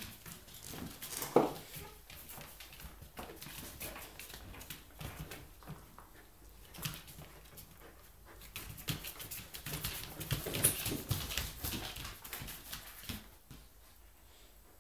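A chow chow and a Samoyed play-fighting: a run of scuffling with many small clicks and knocks, and a short sharp dog sound about a second and a half in. The scuffling is busiest a few seconds before the end.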